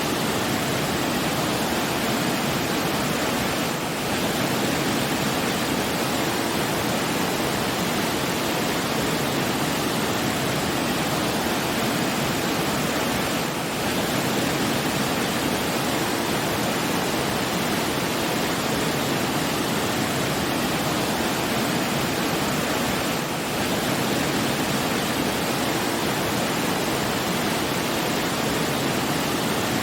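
Steady rushing water, an even hiss with no music over it; the level dips briefly about every ten seconds.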